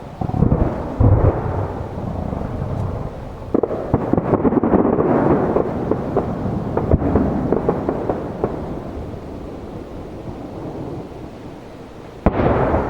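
Aerial firework shells bursting in a series of booms and crackles. There are loud bangs about a second in, a dense run of crackling bursts in the middle, and another loud boom near the end.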